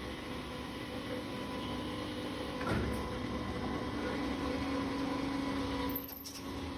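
Automatic copper tube end forming and flattening machine running: a steady machine hum with a clunk about three seconds in, followed by a held drone, and another sharp clunk near the end.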